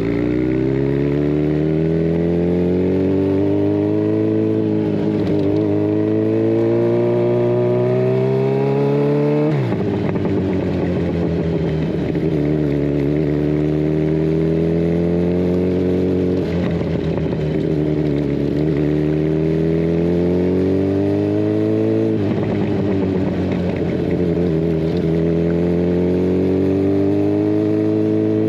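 Kawasaki Ninja 1000SX inline-four with its catalytic converter removed, running through a Scorpion Red Power exhaust as the bike is ridden. The engine note climbs steadily under throttle, drops sharply about a third of the way in and again near the end, then climbs again.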